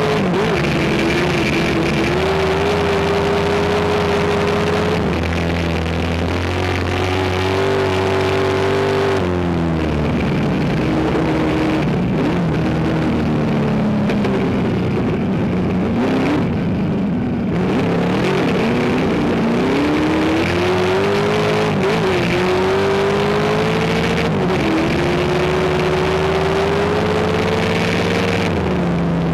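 Race car engine running hard under load, its pitch climbing slowly, then falling and rising again several times as the driver lifts off and gets back on the throttle.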